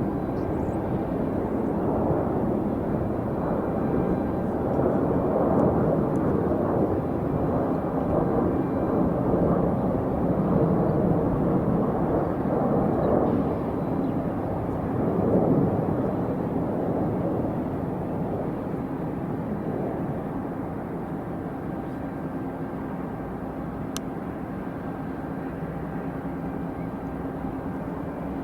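Jet airliner engine noise, a steady low rumble that swells during the first half and then fades away.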